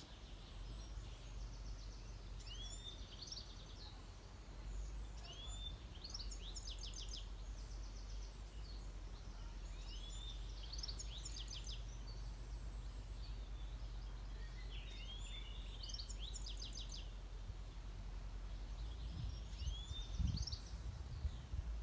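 Outdoor ambience: a songbird singing a short phrase, a quick upward-and-down sweep followed by a fast trill, repeated every few seconds over a steady low rumble. A few low bumps come near the end.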